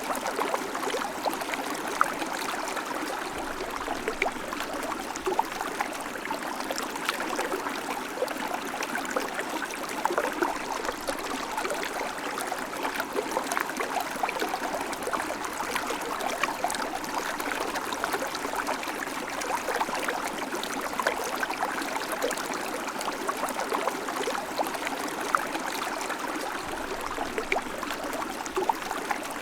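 River water flowing and splashing, a steady rushing with many small bubbling splashes and little low rumble.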